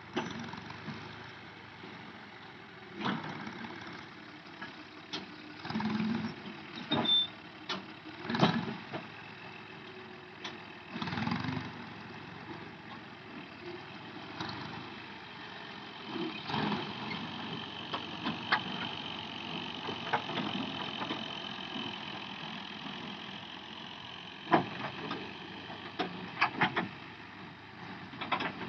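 Tractor engine running steadily, with scattered knocks and clanks every few seconds.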